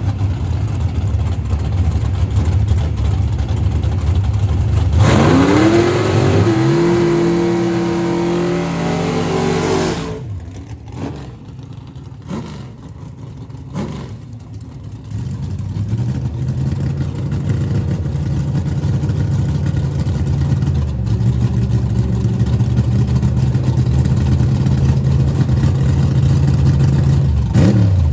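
Drag racing car engines. A low engine rumble runs for the first few seconds; about five seconds in, a car launches with its pitch rising sharply and holding high, and the sound falls away at about ten seconds. After a quieter stretch, an engine rumbles steadily again from about fifteen seconds.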